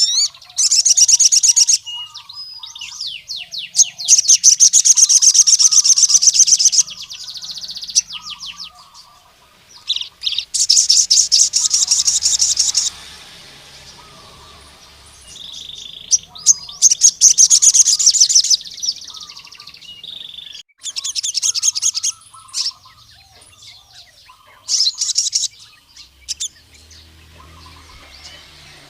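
Male crimson sunbird (sogon) singing loudly in repeated bursts of high, rapid trilling, each lasting one to three seconds, with short chips between them. Fainter, lower chirps from another bird sound throughout.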